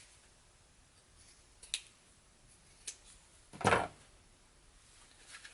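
Handling sounds at a sewing table: two light clicks and a brief, louder rustle about two thirds of the way through, as fabric and tools are handled after the sewing machine has stopped.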